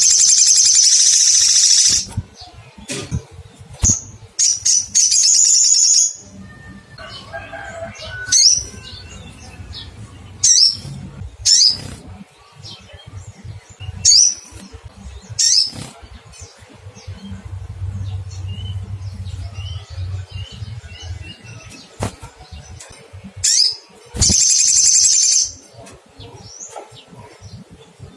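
Olive-backed sunbird calling: sharp, high single chirps scattered throughout, and three loud, fast trills of under two seconds each, near the start, about five seconds in and near the end. It is the bird's challenge call, given when seeking a rival.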